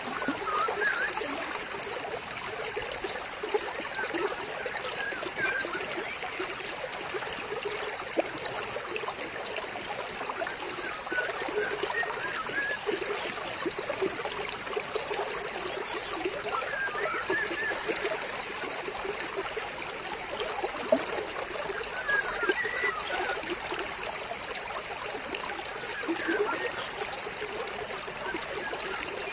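Stream water trickling and splashing steadily over rocks, an even babbling flow with small gurgles.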